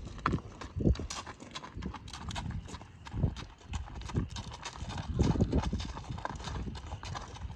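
Hooves of a gaited Tennessee Walking Horse gelding clip-clopping in a quick, uneven run of hoofbeats, with a few heavier thuds among them.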